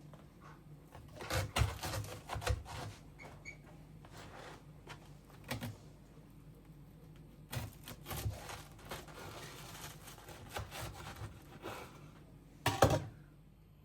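Irregular clicks and knocks of kitchen utensils and dishes being handled, in small clusters, with one sharp knock near the end.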